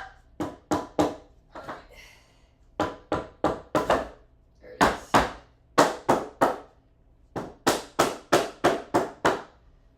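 Hammer driving nails into wood: quick runs of sharp blows, about three a second, with short pauses between the runs.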